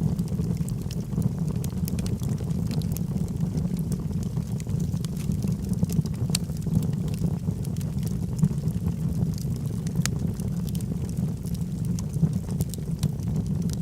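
Logs burning in a fireplace: a steady low rumble of the fire with many small, sharp crackles and pops scattered throughout.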